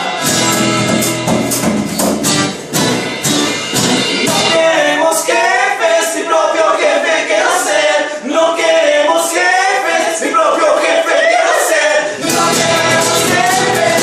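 A band performing a song with singing. After about four and a half seconds the bass and drums drop out, leaving voices singing over light percussion, and the full band comes back in near the end.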